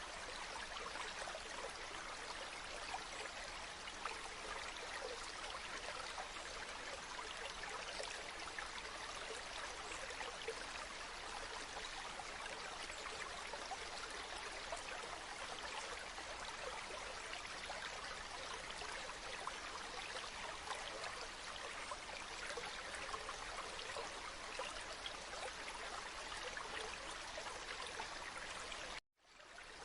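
Stream water babbling and trickling steadily, dense with small splashes. It cuts out to silence for a moment near the end, then returns.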